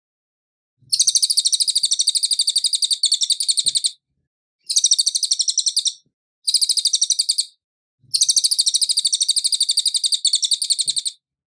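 A cililin bird singing in four bursts of high, rapid trilling with short silences between them. The same long phrase opens and closes the sequence.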